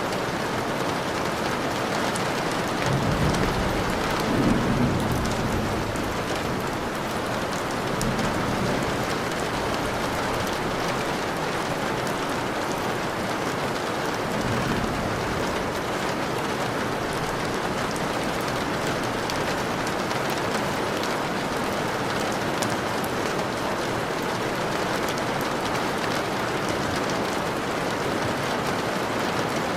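Steady rain falling, with low rolls of thunder: the strongest about four seconds in, and fainter ones near eight and fifteen seconds.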